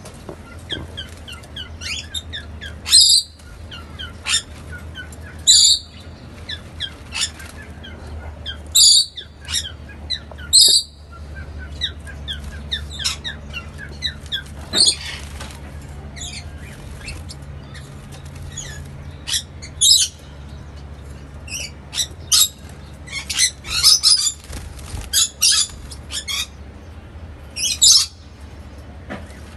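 Small cage birds calling: short, sharp, high chirps and squawks come irregularly and bunch together at times, over a steady low hum.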